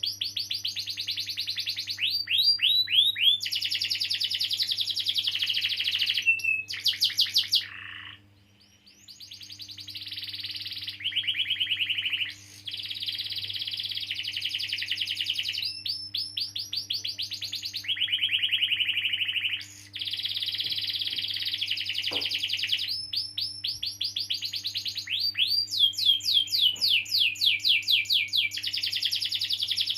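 Domestic canary singing a long, continuous rolling song of fast trills and rapidly repeated high notes, with a brief break about eight seconds in. A faint steady hum runs underneath.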